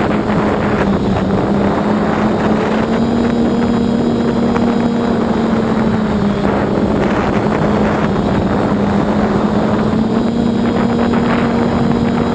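Multirotor drone's electric motors and propellers running with a steady hum that rises slightly in pitch twice and settles back, over rough wind noise buffeting the microphone.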